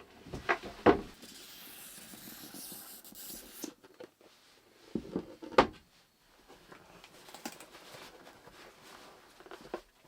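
Objects being handled in a small enclosed space: a few sharp knocks and clicks, two close together near the start and a louder one a little past the middle, with a soft rustling between them.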